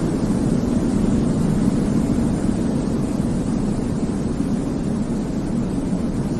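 Steady, deep white noise for baby sleep: an unchanging hiss that is heaviest in the low end, with no rhythm or separate sounds.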